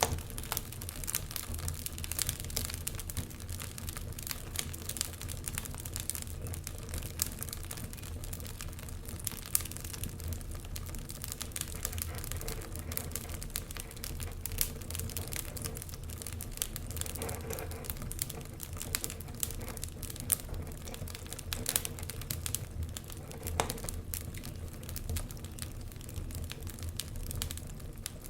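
Wood fire crackling, with frequent small, irregular pops and snaps over a low steady hum.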